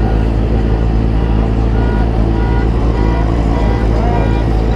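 Sportbike engine running steadily with a heavy low rumble.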